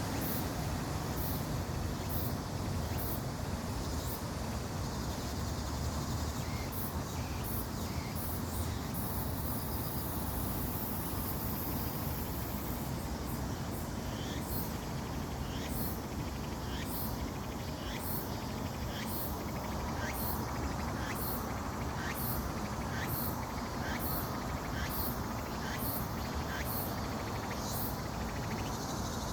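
Outdoor background noise: a steady low rumble under insects chirping, short high chirps repeating about twice a second.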